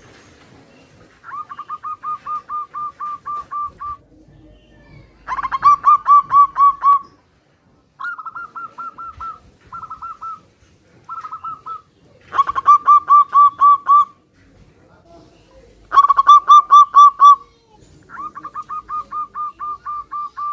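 Zebra doves (perkutut) cooing back and forth, about eight bouts of quick rolling notes on one pitch with short pauses between. Some bouts are loud and close, others softer, and a few in the middle are shorter and slightly higher.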